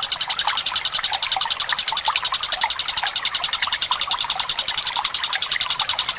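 Collared kingfisher (tengkek buto) call: a long, fast, even rattle of about a dozen harsh notes a second. Trickling water runs underneath.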